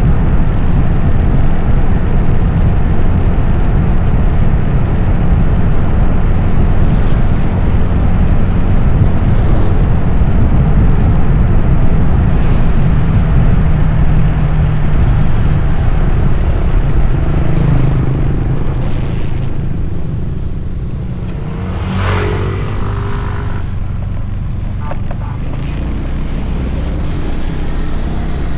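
Wind buffeting the Insta360 X4's built-in microphones while riding a motorcycle: a loud, steady low rumble with traffic noise underneath. The rumble eases in the last third, and a brief pitched sound stands out about three-quarters of the way through.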